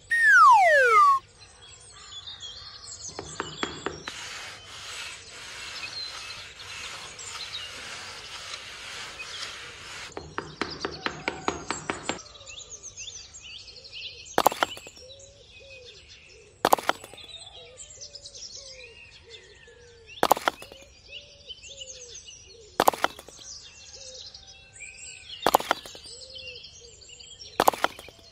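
Small birds chirping throughout. There is a short, loud falling whistle at the very start, then a stretch of hissing noise, a patter of clicks, and a sharp knock every two to three seconds, six in all.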